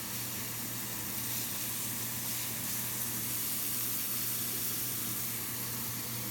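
Shrimp and chicken tenders sizzling steadily in butter in a skillet.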